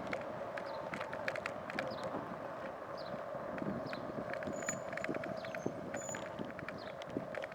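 Bicycle in motion: a steady hum with frequent small clicks and rattles, and a few brief high chirps.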